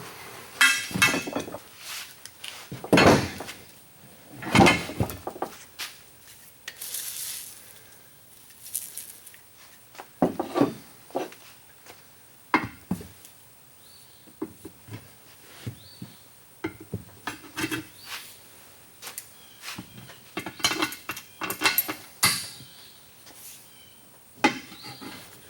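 Wagon tire, inner tube and steel wheel rim being handled and worked together during tire mounting: irregular knocks, clinks and scrapes of rubber and metal, some louder than others.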